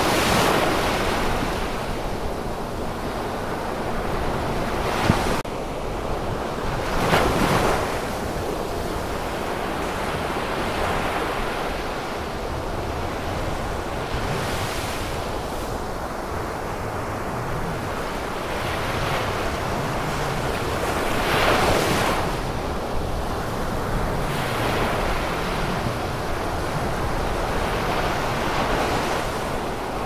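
Ocean waves washing in, a continuous rush that swells in surges every few seconds. There is one short click about five seconds in.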